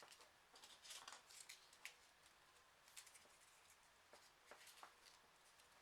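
Faint, irregular rustling and soft clicks of folded printer-paper origami pieces being handled and pushed into place.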